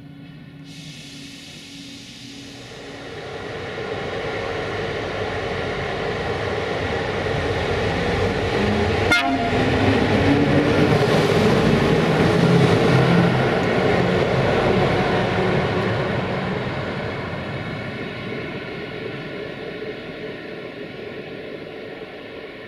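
A train passing through a station: its rumble builds over several seconds, is loudest about halfway through, then fades away. There is a brief sharp sound about nine seconds in.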